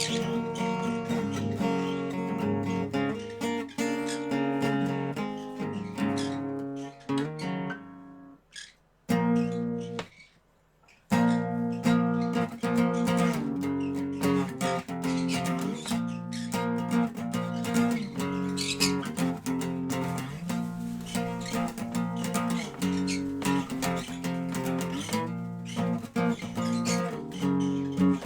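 Acoustic guitar playing picked notes and strummed chords. The playing dies away about a third of the way in, leaving a couple of seconds of near silence, then comes back in strongly with a chord and carries on.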